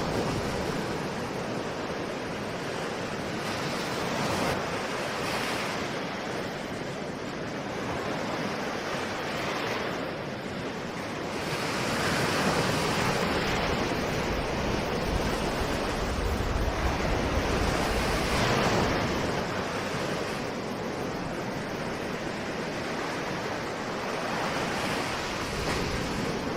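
Ocean surf: waves breaking and washing in as a continuous rush that swells and eases every few seconds, loudest in the middle stretch.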